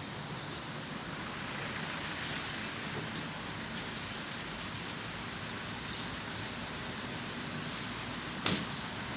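Chorus of autumn grass insects, crickets among them, chirping in a high, continuous trill that pulses rapidly and evenly.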